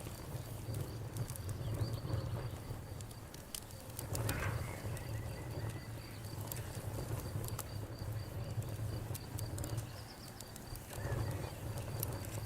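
Campfire burning: wood crackling with scattered sharp pops over a steady low rumble.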